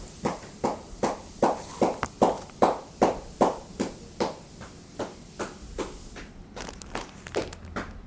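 Footsteps of a person walking at an even pace, about two and a half steps a second, turning quicker and lighter near the end.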